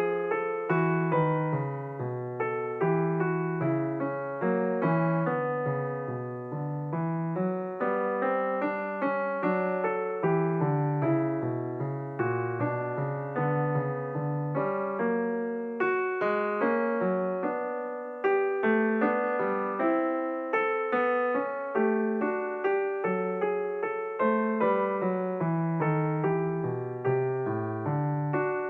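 Solo piano music: a steady flow of struck notes with a low accompaniment and a melody above, each note decaying after its attack.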